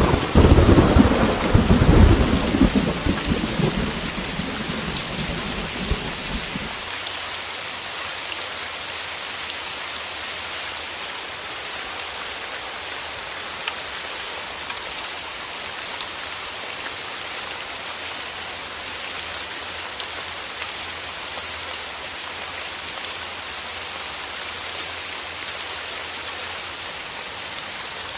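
A loud peal of thunder rumbles over heavy rain for the first seven seconds or so, then stops abruptly. Steady heavy rain follows.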